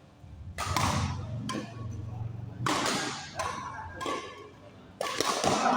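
Badminton rackets striking a shuttlecock during a rally: sharp hits about two seconds apart, each echoing in a sports hall, with players' voices in between.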